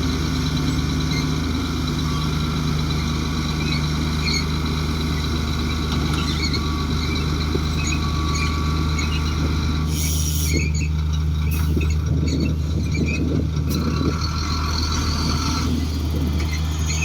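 Komatsu D58 bulldozer's diesel engine running steadily, with thin high-pitched squealing tones above it that change about ten seconds in.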